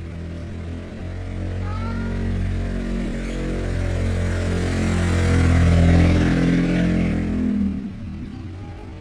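A motor vehicle's engine grows louder, peaks about six seconds in and then fades, as if it passes by. A couple of short bird chirps sound faintly about two seconds in.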